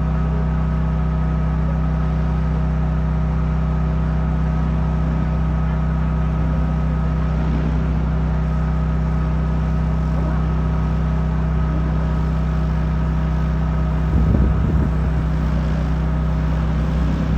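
DJI Agras T50 agricultural spray drone's rotors humming steadily at an even pitch. A brief louder, wavering sound comes in near the end.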